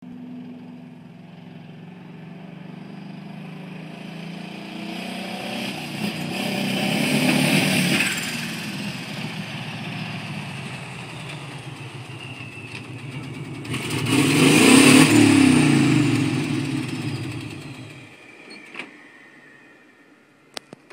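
Motor vehicle engine running and going past twice, loudest about 8 and 15 seconds in, its pitch dropping after each pass, then fading away. A few sharp clicks near the end.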